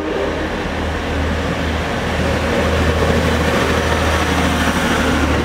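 A passing train: a loud, steady low drone with noise over it, slowly getting louder.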